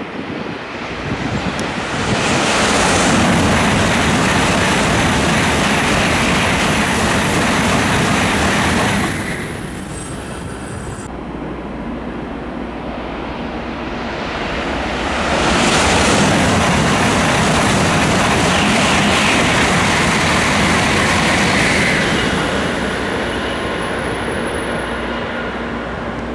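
Two Tokaido Shinkansen trains go by, one after the other. Each is a loud, even rushing roar that builds quickly, holds for about seven seconds and then fades.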